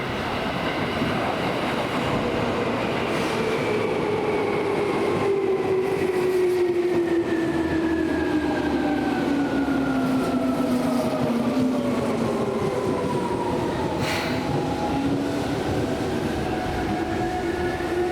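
Seibu New 2000 series electric train, an older field-chopper-controlled type without the VVVF whine, slowing down. Its traction motor and gear hum falls steadily in pitch, then levels off, with one short sharp click about 14 seconds in.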